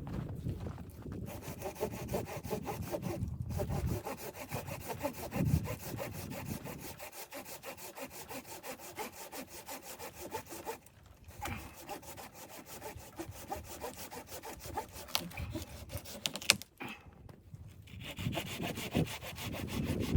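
A saw cutting through wood in steady, repeated back-and-forth strokes, stopping briefly a few times.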